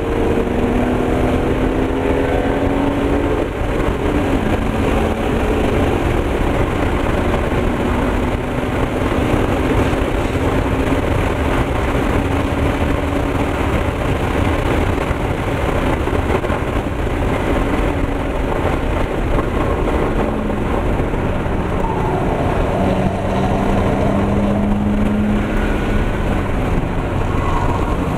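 2001 BMW 325i's 2.5-litre straight-six engine working hard at track speed, heard from inside the cabin under loud wind and road noise. The engine pitch climbs through the first few seconds and rises again later on.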